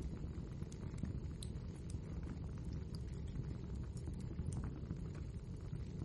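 Wood fire in a fireplace burning steadily: a low rumble of flames with irregular small crackles and pops of the burning logs.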